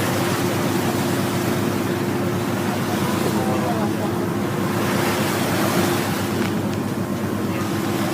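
Steady engine drone under a wash of wind and rushing sea water, as heard aboard a motor boat at sea; the engine's hum holds one even pitch throughout.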